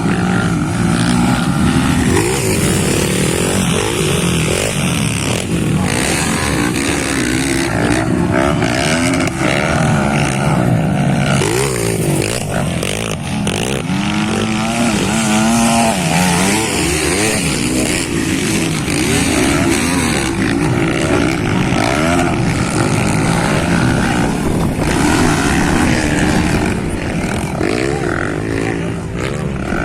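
Several motocross motorcycle engines racing, their pitches repeatedly rising and falling and overlapping as the riders rev and shift.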